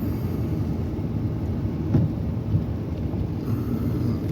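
Steady low rumble of a car driving on a snow-covered road, heard from inside the cabin: tyre and engine noise. A single thump stands out about two seconds in.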